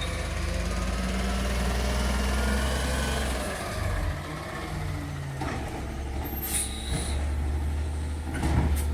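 Garbage truck's engine running steadily, dropping off briefly about four seconds in, with a few short sharp sounds in the second half.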